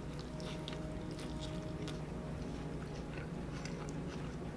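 A man chewing a mouthful of hamburger, with soft scattered wet mouth clicks, over a steady low room hum.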